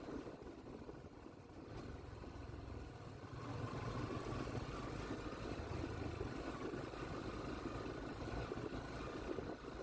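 Motorcycle engine running steadily while riding, getting louder about three and a half seconds in.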